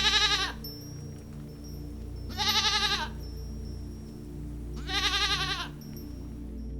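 Livestock bleating: three short quavering calls, evenly spaced about two and a half seconds apart, over a low steady hum.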